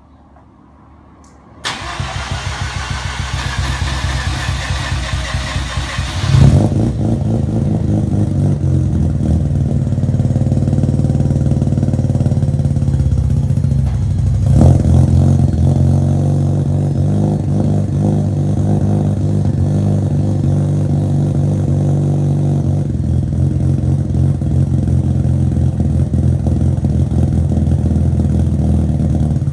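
Mazda twin-rotor Wankel rotary engine cold-started: the starter cranks it for about four seconds, it catches with a loud burst, then settles into a steady fast cold idle, with one brief jump in level midway.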